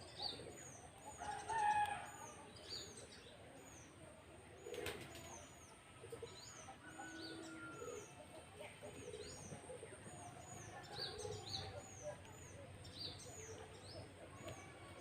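Birds chirping: short high-pitched chirps repeating quickly and steadily, over a steady high whine, with a few lower, louder calls near the start.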